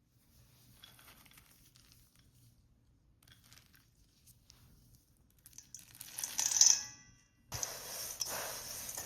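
Dry rustling and crinkling from granola ingredients being handled: faint scattered rustles, a louder crinkle about six seconds in, then steady rustling from about seven and a half seconds.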